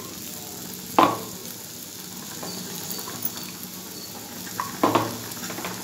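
Bitter gourd pieces sizzling steadily as they fry in oil in a kadai. A metal spatula knocks sharply against the pan about a second in and again near the end.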